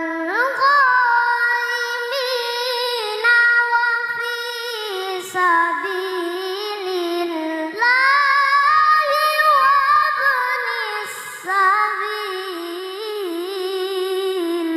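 A child's voice reciting the Quran in melodic tilawah style: one long, high-pitched phrase of held notes with wavering ornaments, briefly dipping about five seconds in and climbing again about eight seconds in.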